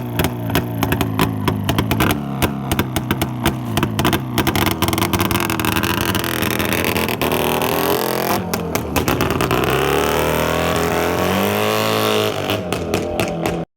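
CZ 350 two-stroke twin motorcycle engine running and being revved, with uneven crackling firing at first. Later the revs rise and fall several times, then the sound cuts off abruptly near the end.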